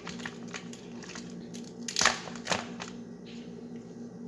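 Crab leg shells being cracked and snapped open: scattered small clicks, then two louder cracks about two seconds in, over a faint steady hum.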